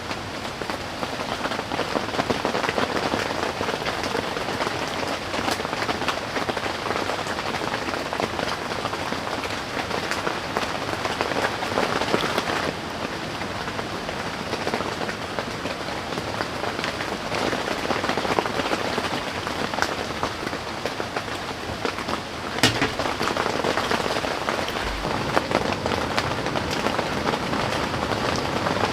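Steady heavy rain falling on a tent, a dense hiss of many small drop ticks, with one sharper tap a little over three-quarters of the way through.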